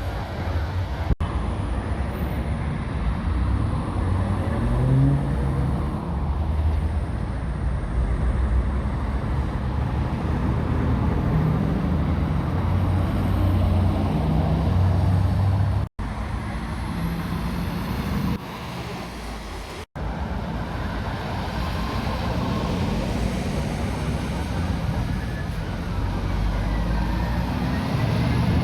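Road traffic with heavy lorries passing: a steady low diesel engine rumble and tyre noise. The sound breaks off abruptly for an instant three times, at about one second, about sixteen seconds and about twenty seconds in.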